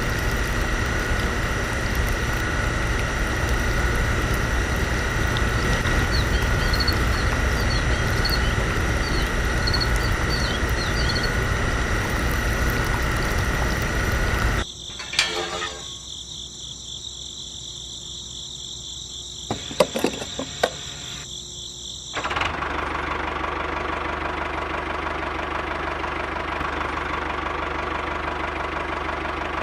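A small engine running steadily. About halfway through it gives way to a quieter stretch with a high chirring and a few sharp clicks, then steady engine running resumes for the rest.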